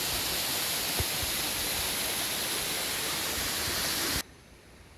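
Steady rush of water falling from a waterfall, with one faint knock about a second in; the rushing cuts off suddenly near the end.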